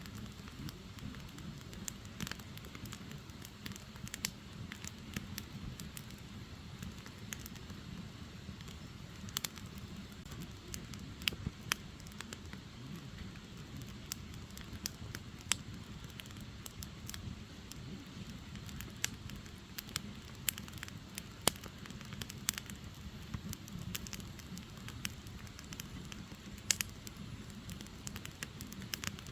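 Split firewood burning, with irregular sharp crackles and pops over a steady low rumble.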